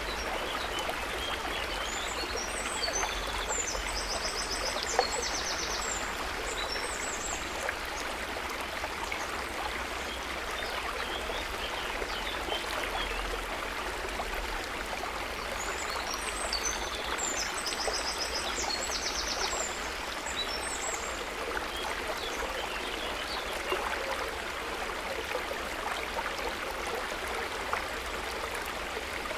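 River water running steadily, a constant rushing flow. A bird sings high chirping, trilling phrases twice: a few seconds in and again a little past midway.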